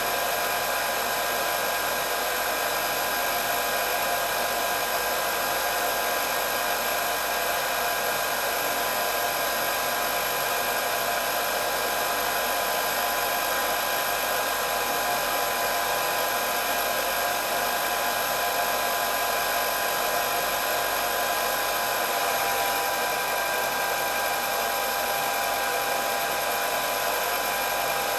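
Electric hair dryer running continuously: a steady rush of blown air with a constant motor whine.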